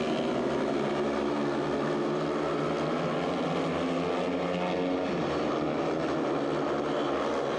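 Several speedway bikes' 500 cc single-cylinder methanol engines running flat out as the riders lap the dirt track, a steady, even drone of overlapping engine notes.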